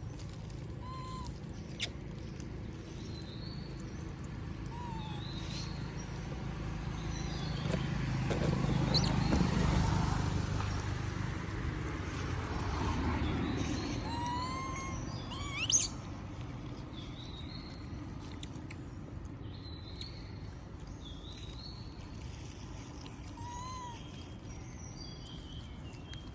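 Outdoor ambience: scattered short bird chirps over a low rumble that swells and fades around the middle, with one sharp rising squeak a little past halfway.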